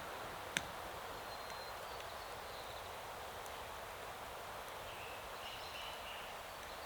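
Outdoor ambience: a steady hiss of background noise, with one sharp click about half a second in and faint high chirps near the end.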